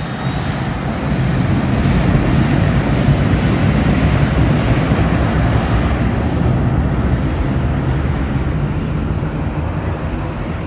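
Aircraft engines running loud with a deep rumble as a plane passes along the runway. The higher hiss fades from about six seconds in as it moves away.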